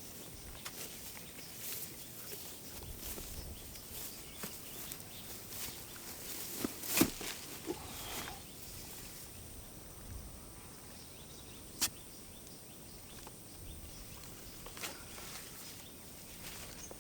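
Footsteps through grass with scattered short clicks, over a faint steady high-pitched insect chirring; the sharpest click comes about seven seconds in, another near twelve seconds.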